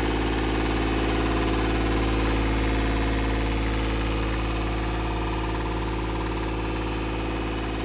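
Freshly rebuilt Yanmar 3GM30F three-cylinder marine diesel running steadily, with an even, unbroken note that the owners judge to sound fine. It eases off slightly in level about halfway through.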